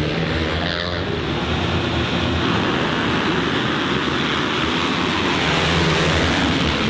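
Motocross bike engine running steadily, mixed with loud wind rush on the microphone.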